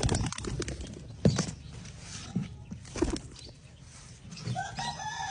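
A trapped pigeon scuffling and flapping, with a few separate knocks spread through and a short pitched call near the end.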